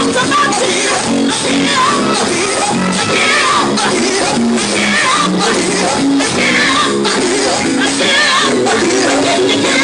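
Live gospel music with a steady beat, with voices singing and calling out over the band.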